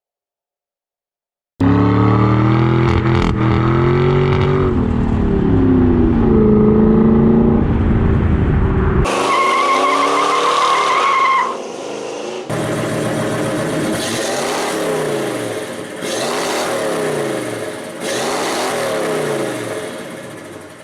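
Car engines revving in a string of short clips. First a loud engine rising and falling in pitch; then, after a sudden cut, a steady high whine for a couple of seconds; then another engine revved again and again, about every two seconds.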